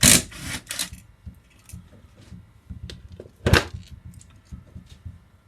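Metal hand tools and parts clinking and clattering on a workbench. A burst of rattling comes at the start, a sharp clank about three and a half seconds in, and small knocks in between.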